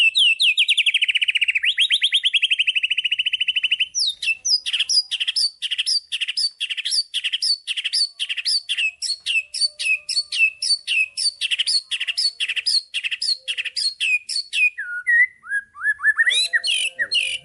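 White-rumped shama (murai batu) singing. A fast trill of falling notes lasts about four seconds, followed by a long series of repeated sharp whistled notes at about three a second, then a few rising notes near the end.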